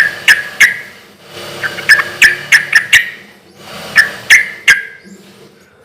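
Yellow-vented bulbul (cucak trucuk) singing loudly in three short phrases of quick, sharp notes, about three notes a second, with brief pauses between phrases.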